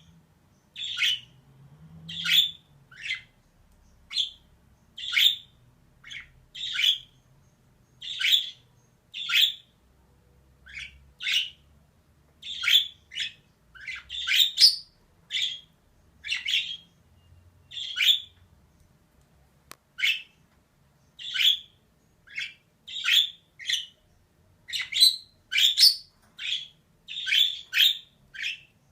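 Female budgerigar giving short chirping calls over and over, about one a second, some in quick pairs.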